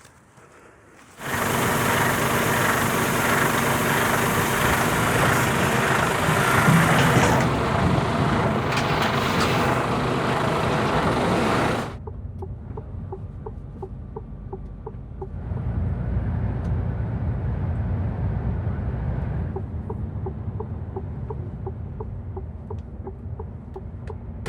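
Semi-truck sounds: a loud, steady rush of noise for about ten seconds that cuts off suddenly, then quieter running with a regular ticking of about two to three ticks a second and a second, shorter swell of noise partway through.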